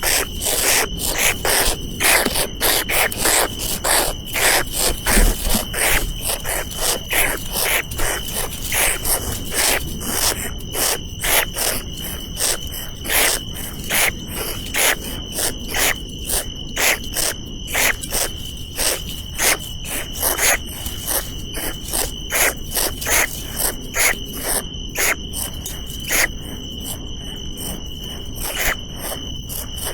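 Insects calling: a steady high-pitched drone with a rapid run of rasping pulses over it, a few each second.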